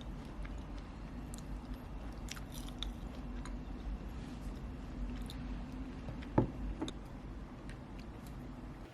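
A person chewing and biting food, with scattered small clicks and one sharper knock about six and a half seconds in, over a steady low hum.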